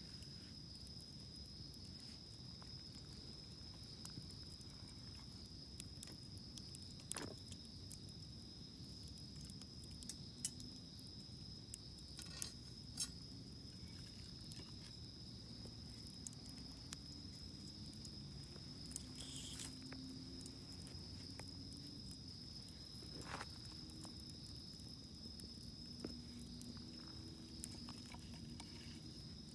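Wood campfire crackling quietly, with a few sharp pops scattered through, over a steady high insect trill.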